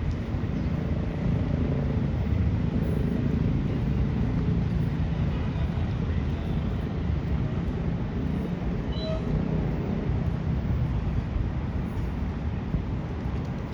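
Steady low rumble of city traffic and vehicle road noise, with a brief high squeak about nine seconds in.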